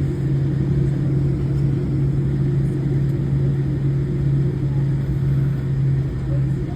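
Steady low engine drone heard from inside a vehicle, with a constant low hum that holds the same pitch throughout.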